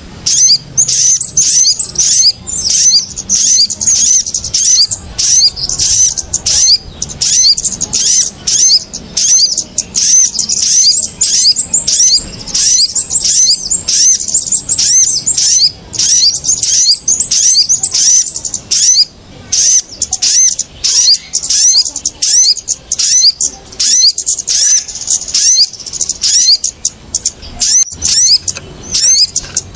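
Bird-lure recording of small birds, the kemade and sogon, in an agitated chorus: rapid, continuous high-pitched chirps and short twittering notes, several a second, with no pause.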